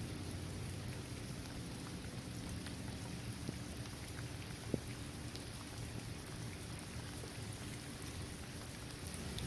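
Steady rain falling on a hard court surface, trees and grass, with scattered individual drops ticking through it. One louder single drop lands about halfway through.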